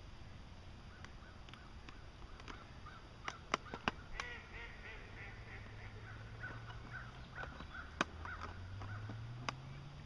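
Bird calls: a run of short pitched calls starting about four seconds in, with a few sharp clicks and a low hum that rises in pitch near the end.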